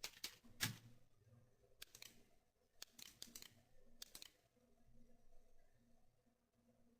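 Near silence broken by about a dozen faint, sharp clicks at irregular intervals, from a computer mouse.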